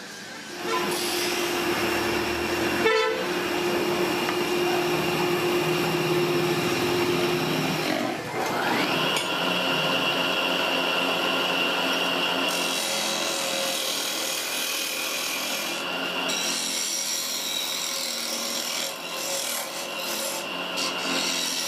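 Woodworking tools cutting and scraping wood, a continuous rasping noise that starts just under a second in and changes character several times.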